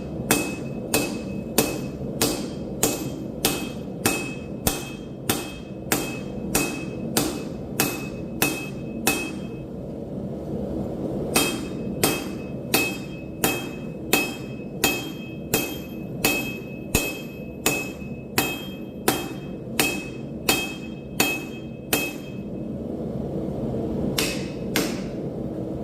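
Hand hammer blows on steel at the anvil, about two a second, each with a bright metallic ring. The hammering pauses briefly twice and ends with two last blows near the end. A steady low rushing noise runs underneath and grows louder toward the end.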